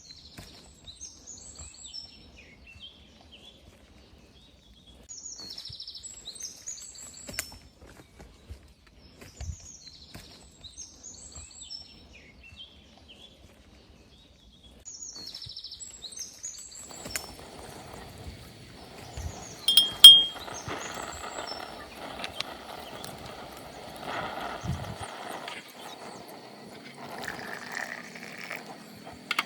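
A bird calling in short, quick descending chirps, repeated every few seconds. About halfway through a steady rushing noise sets in, and near two-thirds of the way there is one sharp, loud click.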